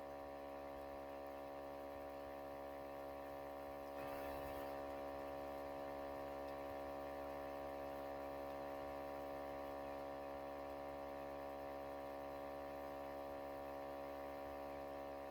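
Steady electrical mains hum, a buzz of many evenly spaced tones, getting a little louder about four seconds in.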